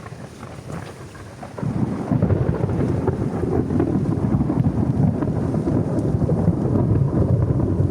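Rain falling on a plastic tarp, then about a second and a half in a long, low rumble of thunder sets in and keeps rolling.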